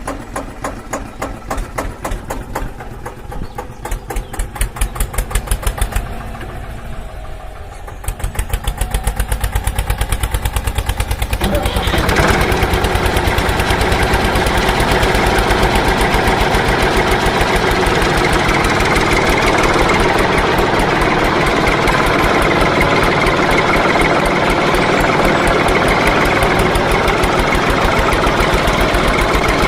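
Tractor engine running with an even, thumping beat. It speeds up about eight seconds in and gets louder a few seconds later.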